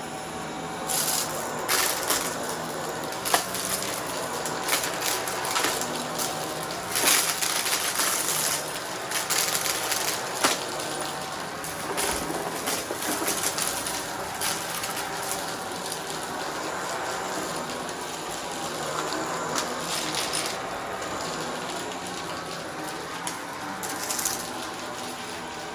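Vacuum cleaner running, with many sharp clicks and crackles as crunchy debris is sucked up and rattles through it, busiest in the first half.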